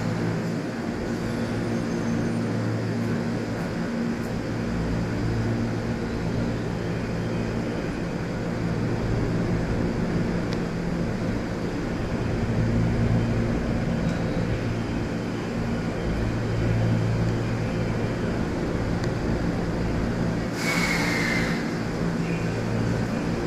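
209 series electric train at the platform, giving a steady low hum. A short burst of hiss comes about 21 seconds in.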